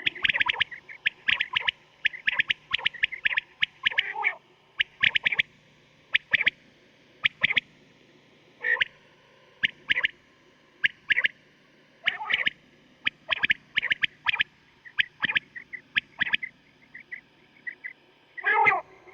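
Quail calling over and over in short, sharp notes bunched in quick groups, with a few lower, coarser calls among them: a quail call recording of the kind played to lure quail when hunting.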